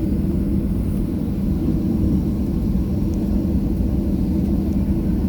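Steady low drone of a Boeing 737-700 heard from inside the passenger cabin, even throughout with a held hum in it and no rise or fall.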